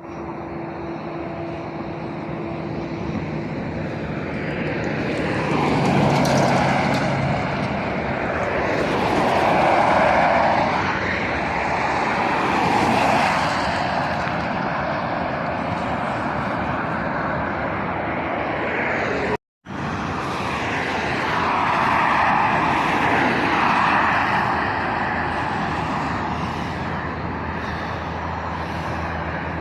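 Road traffic, lorries among it, passing one vehicle after another: several rising and fading swells of tyre and engine noise. The sound drops out suddenly for a moment about two-thirds of the way through.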